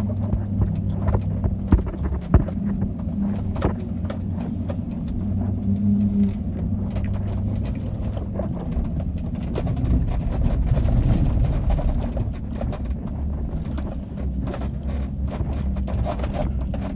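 Chevrolet Silverado's 5.3-litre Vortec V8 running as the 4x4 truck drives over rough ground, with scattered knocks and clatters. The engine grows louder for a couple of seconds about two-thirds of the way through.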